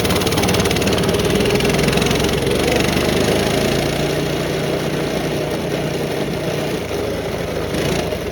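Small off-road vehicle engine running steadily at low speed while being ridden.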